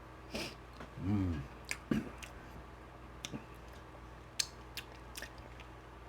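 Close-miked mouth sounds of a person chewing: scattered wet clicks and smacks, with a short hummed "mm" about a second in.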